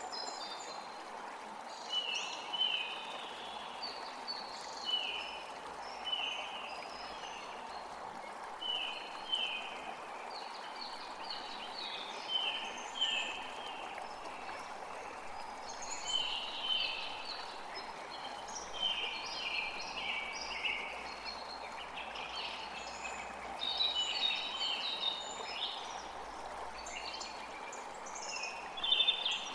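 Songbirds chirping in many short, quick, slightly falling notes, in scattered runs throughout, over a steady background rush.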